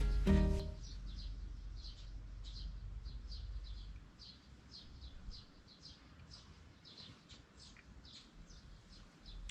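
Small birds chirping: a long run of short, high chirps, two or three a second, getting fainter after a few seconds, over a faint low rumble. A guitar music cue dies away in the first half second.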